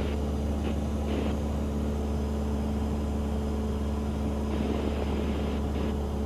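Cessna 172's single piston engine and propeller droning steadily in cruise flight.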